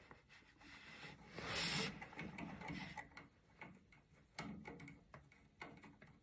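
Light clicks and ticks of small water-heater pilot-assembly parts being handled and fitted by hand, with one brief louder rustle about a second and a half in.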